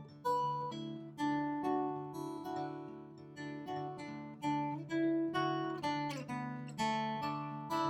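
Background music: an acoustic guitar picking and strumming a gentle melody over a held chord.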